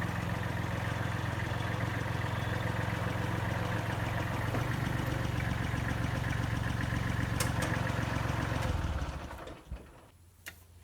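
Diesel engine of a Kubota L35 tractor-loader-backhoe running steadily, stopping about nine seconds in. Two short clicks follow.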